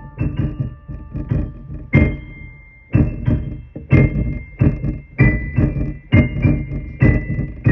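Electric keyboard played in a piano voice: a slow run of struck chords and melody notes, with a new chord about once a second. Each chord lands with a low thud under the ringing notes.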